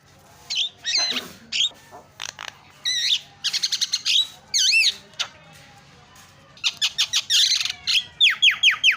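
Javan myna singing a varied string of whistles, warbled glides and harsh chattering notes, then near the end breaking into a fast run of sharply falling whistles, about six a second.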